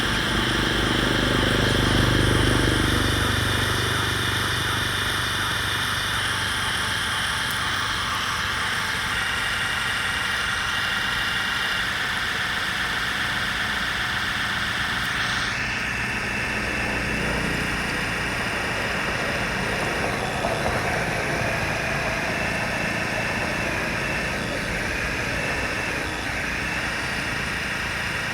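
Electric motors and gearboxes of radio-controlled construction models (bulldozer and dump truck) whining steadily, with several high tones together that shift in pitch about halfway through. A low rumble sounds in the first few seconds.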